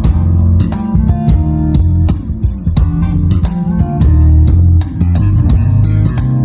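Instrumental music with bass guitar and guitar over a steady beat, played through a two-way PA loudspeaker system. The bass is heavy.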